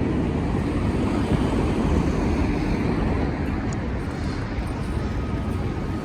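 Steady city street din: a low rumble of traffic noise with no single sound standing out.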